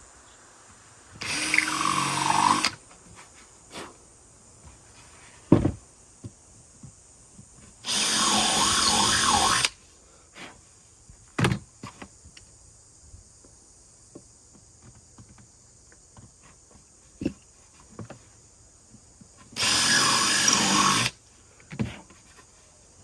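Power drill run in three short bursts, each about a second and a half, boring a hole through a floor tom's drum shell. Sharp knocks of handling fall between the bursts.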